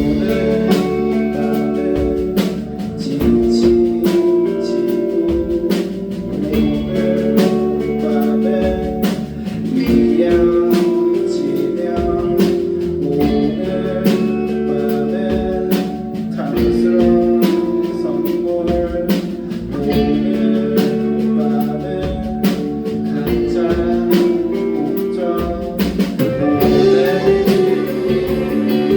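A rock band playing a song: guitars holding sustained chords over a steady drum beat.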